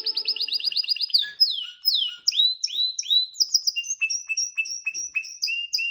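Canary singing. It opens with a fast trill of repeated notes, moves into a series of downward-sweeping whistles, and closes with a quicker run of repeated two-part notes.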